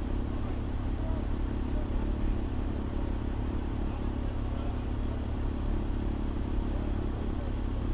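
Fire engine's engine running steadily, a constant low rumble heard from the dashcam in the cab.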